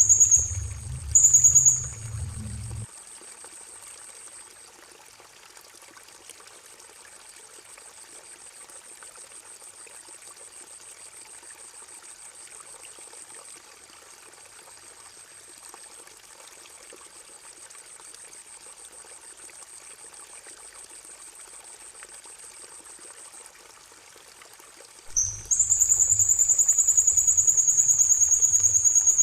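Songbird master recording: a very high, rapidly pulsing trill, loud at the start and again near the end and faint in between. A steady trickle of running water plays underneath.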